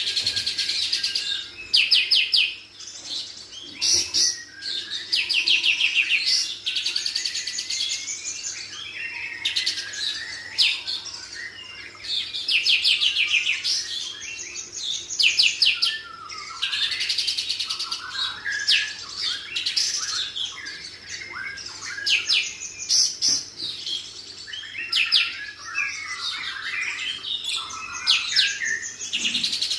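Kapas tembak songbird singing almost without pause, with fast chattering trills mixed with warbled, falling phrases. A faint steady low hum runs underneath.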